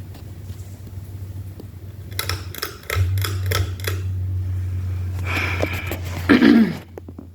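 Ceiling fan motor humming steadily. The hum gets suddenly louder about three seconds in, among a run of clicks at about three a second. Near the end a louder, brief noisy sound with a falling pitch cuts across it.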